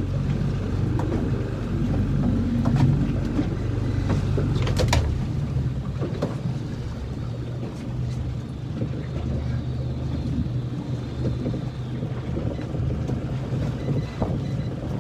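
Small fishing boat's engine running with a steady low hum, its note dropping about five seconds in, with a few knocks around that change and wind over the microphone.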